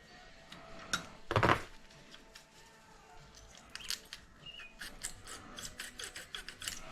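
Small metal tools being handled while the valve clearance is set on a GX200-clone engine with feeler gauges: a louder clatter about a second and a half in, then a run of quick light metallic clicks over the last few seconds.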